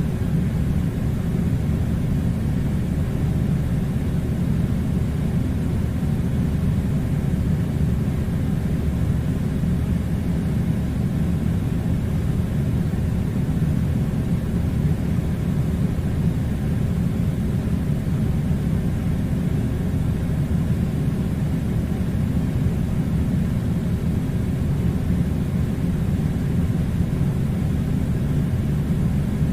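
A steady, unchanging low rumbling noise, with most of its weight in the bass and no breaks or changes.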